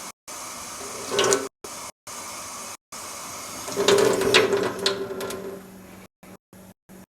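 Water running from a tap while a bottle is filled with soap and water, with a short louder gush about a second in and a longer louder spell from about four to five and a half seconds.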